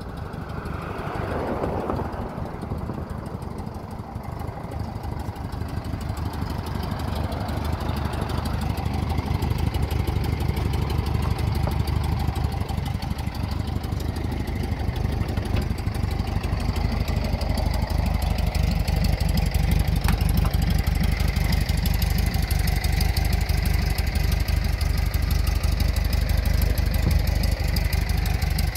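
1967 VW split-window bus's stock 1500 air-cooled flat-four engine idling steadily, growing louder toward the end.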